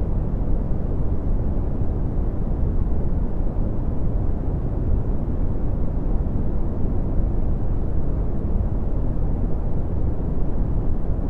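Red (Brownian) noise: a steady, deep rumbling hiss with most of its energy in the low end and the highs strongly rolled off, unchanging throughout.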